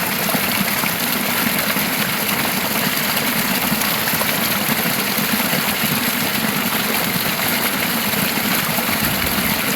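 Running river water: a steady rushing that does not let up.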